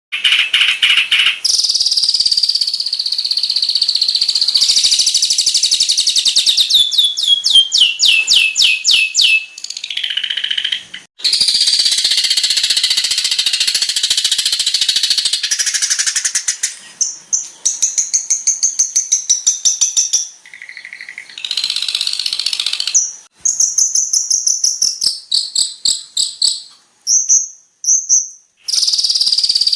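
Long-tailed shrike (cendet) song: a fast, high-pitched stream of rapid repeated notes and trills. A run of notes falls in pitch about eight seconds in, with short pauses around ten, twenty and twenty-eight seconds.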